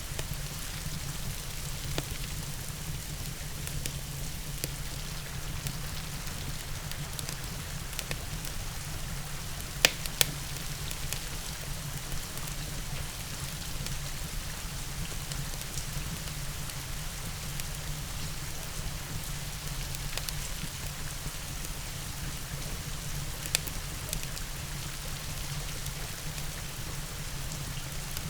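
Steady rain hiss over a constant low rumble, with scattered sharp crackles from a wood fire. The loudest is a pair of pops about ten seconds in, with another single pop later.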